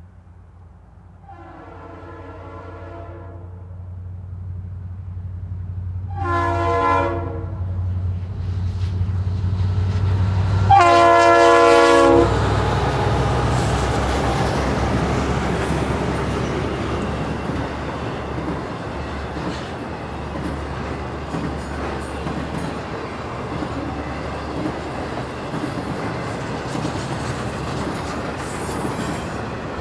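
Diesel freight locomotive approaching and sounding its air horn, a chord of several notes: a long blast about a second in, a short one near seven seconds, and a louder long one near eleven seconds, the close of a grade-crossing warning signal. The locomotive's engine drone builds as it nears, then the intermodal train's cars rumble and clatter over the rails as they pass.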